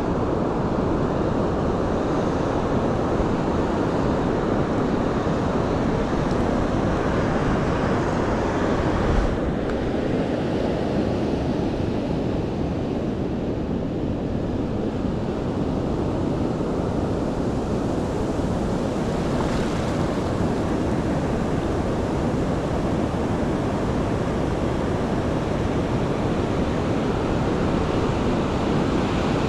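Pacific Ocean surf washing in steadily, with wind buffeting the microphone.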